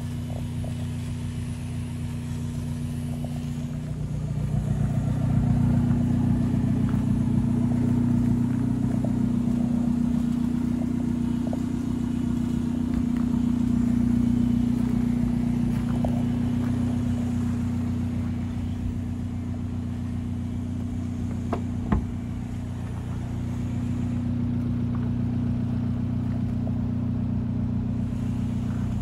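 Abarth 124 Spider's 1.4-litre turbocharged four-cylinder idling steadily, louder for a stretch after about four seconds in. A single sharp click a little over twenty seconds in.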